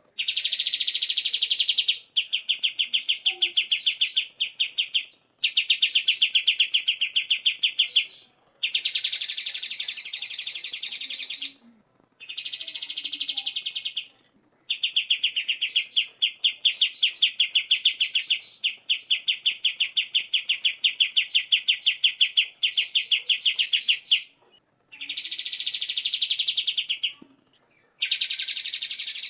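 A songbird singing a run of long, rapid, even trills, each lasting two to four seconds with short pauses between, about nine phrases in all; some phrases are pitched higher and brighter than the rest.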